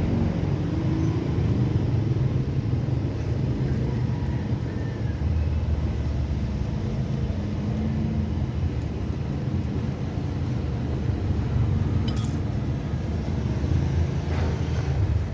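Steady low mechanical rumble, with a single sharp clink about twelve seconds in.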